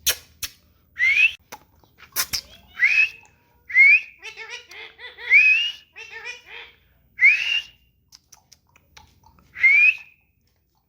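A pet green parrot whistling: about six short rising whistles, each a fraction of a second long, spaced a second or two apart. There are a few sharp clicks in the first couple of seconds.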